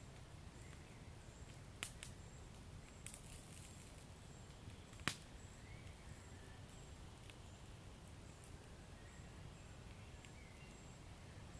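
Wood fire crackling softly in a fireplace over a low steady rumble, with a few sharp pops, the loudest about five seconds in.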